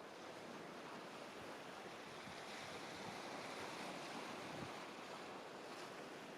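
Faint, steady wash of ocean surf.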